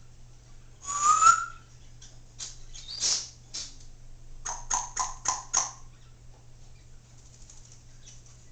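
Congo African grey parrot vocalizing: a loud squawk with a rising whistle about a second in, then a few short clicks, then a quick run of five short, evenly spaced calls near the middle.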